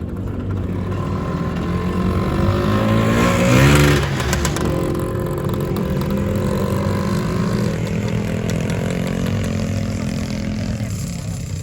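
Two-stroke Lambretta scooter engines running; one revs up, rising in pitch and loudest about four seconds in, then the engine sound settles to a steady drone.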